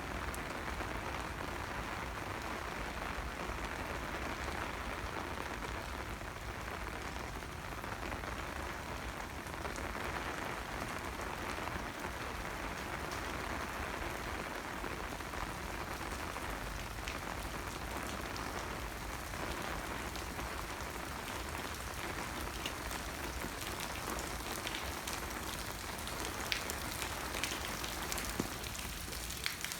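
Steady rain falling, heard as an even hiss, with sharper drop ticks that grow more frequent near the end.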